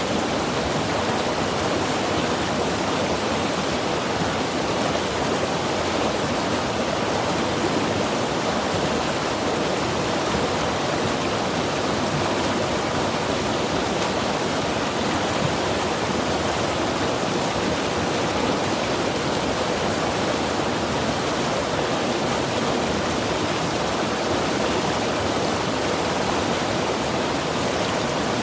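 Mountain river rushing steadily over rocks, a constant, even flow of water with no distinct splashes or changes.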